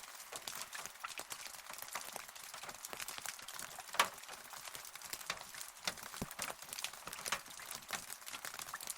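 Rain pattering, many separate drops ticking close by, with one louder drop about four seconds in.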